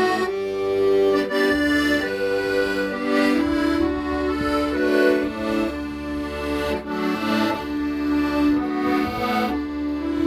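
Accordion playing a melody in held notes over sustained bass notes and chords.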